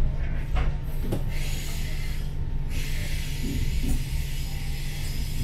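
Inside a passenger train carriage rolling slowly along a station platform: a steady low rumble with a hiss of air over it, which breaks off briefly a little after two seconds in and then resumes.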